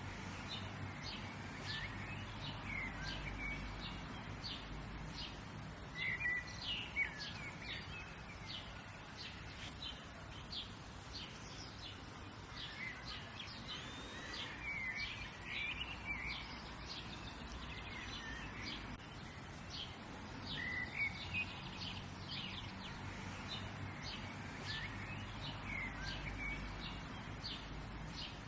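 Several small birds chirping and trilling, many short calls throughout, over a steady low outdoor rumble.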